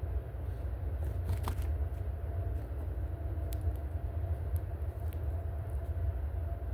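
Steady low outdoor rumble, like distant traffic or wind on the microphone, with a few faint sharp ticks.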